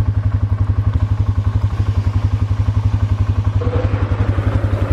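Four-wheeler's small engine idling close by, a loud, even, rapid low pulsing.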